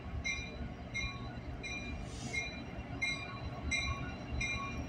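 Freight train of double-stack container well cars rolling slowly past, a low rumble with short high-pitched ringing squeals repeating about three times a second.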